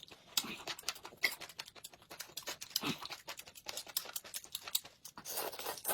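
Close-miked chewing and mouth sounds while eating chicken feet: a rapid, irregular run of clicks and smacks.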